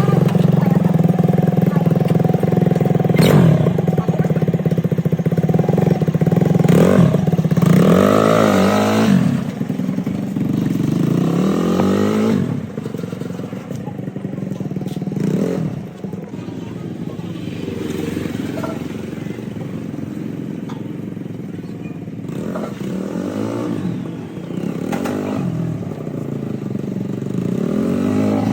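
Tractor engine running, revved up and back down twice, with a few sharp knocks; it runs more quietly in the second half.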